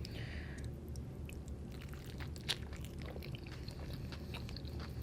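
Close-up chewing of food, with many small wet mouth clicks and one louder click about two and a half seconds in.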